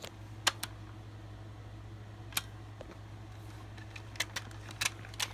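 Sharp plastic clicks from the buttons on a toy robot truck being pressed, about eight at uneven intervals, several bunched near the end, over a steady low hum.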